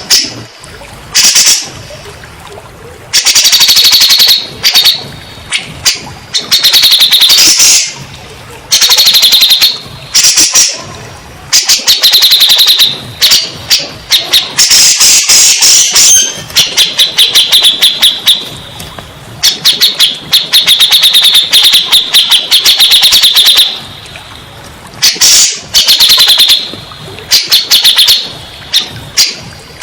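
Cucak jenggot (grey-cheeked bulbul) calling: loud, rapid chattering phrases of a second or two each, repeated with short gaps, from a therapy/provoking-call recording meant to get a stressed or silent caged bird to answer.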